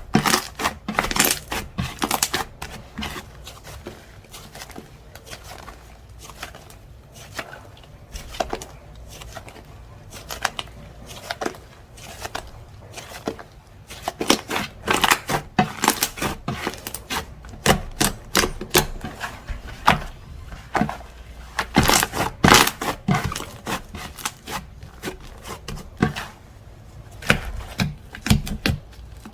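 Hands squishing, pressing and stretching slime, giving many irregular sharp clicks and pops. They come in thick flurries with sparser stretches between.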